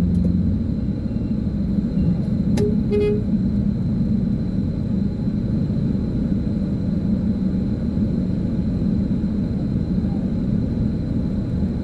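Steady low rumble of vehicle engines running on a street, with a short double horn toot about three seconds in.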